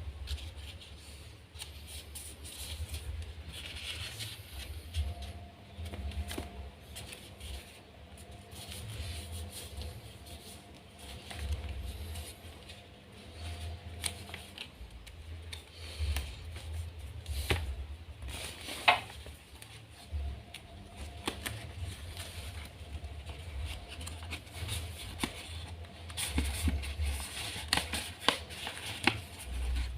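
A square sheet of origami paper being folded and creased by hand: irregular rustling and sharp crinkles as the paper is turned and pressed, with dull bumps of handling underneath.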